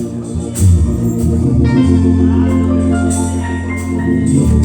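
Church band music led by an organ, playing sustained chords over a long held bass note, with a few drum hits near the start.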